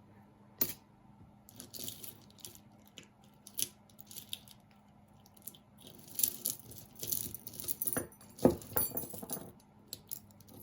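Costume jewelry pieces clinking and rattling against each other as they are picked through and handled, in scattered light clicks with a few sharper knocks, the loudest about eight and a half seconds in.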